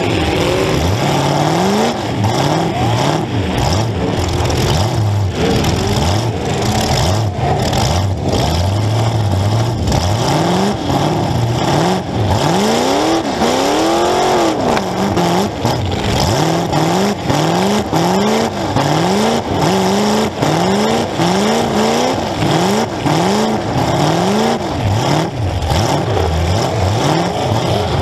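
A demolition derby car's engine revving hard, heard from inside the car: its pitch climbs and drops over and over. There is one long rise and fall about halfway through, then quick surges about once a second, among frequent knocks and rattles.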